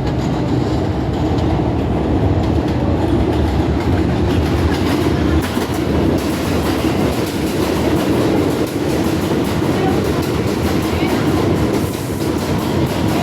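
New York City subway J train pulling into a station, a steady loud rumble of the train over the rails. Repeated wheel clicks over rail joints come through, most marked from about five seconds in.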